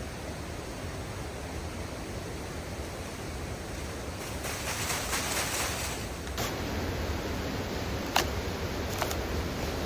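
Steady outdoor rushing noise, with a stretch of rustling about four seconds in and a few sharp clicks or knocks in the second half.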